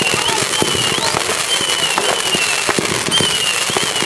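Fireworks going off in a steady, dense crackle of many small sharp bangs. Over it runs a high whistle that dips and then rises again, repeating about once a second.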